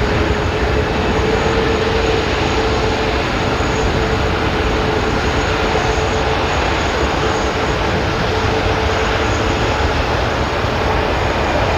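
Qantas Airbus A380-800's four Rolls-Royce Trent 900 jet engines on approach to land: a steady roar with a thin, steady whine over it.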